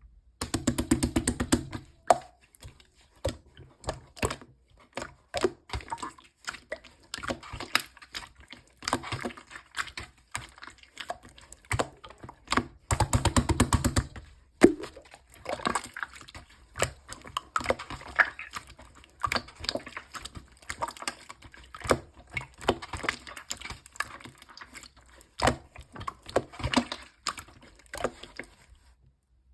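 Purple marbled slime being squished and pressed by hand, giving irregular clicks and pops. There are two stretches of rapid crackling, one just after the start and one about halfway through.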